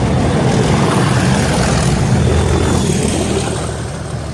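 Class 37 diesel-electric locomotive, with its English Electric V12 engine, running loud and steady as it hauls a train past, easing off slightly near the end.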